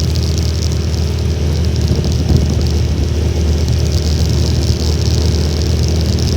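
Honda Little Cub's small single-cylinder four-stroke engine running at a steady speed while riding, with a steady rush of strong wind.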